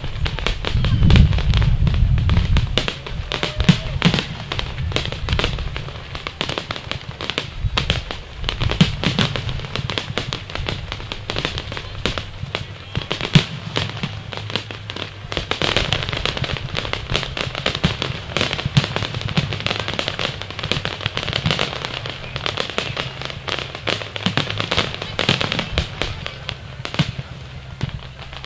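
Fireworks display: shells bursting in quick succession with dense crackling, and a heavy low boom about a second in.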